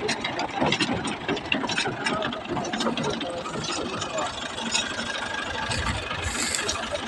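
Tractor engine running with a dense, irregular mechanical clatter from the rotavator.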